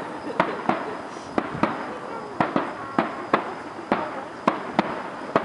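Distant aerial firework shells bursting in a rapid, irregular series of sharp bangs, two or three a second.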